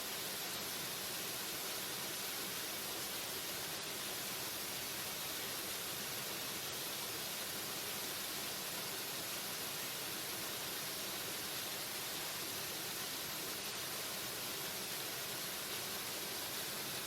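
Waterfall: a steady, unchanging rush of falling water, an even hiss brightest in the high range.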